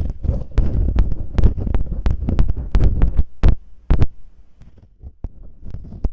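Masking tape rubbed and scratched against a microphone in imitation of ear cleaning. It makes close, crackling rustles with sharp clicks and low thuds, and eases off for about a second and a half late on.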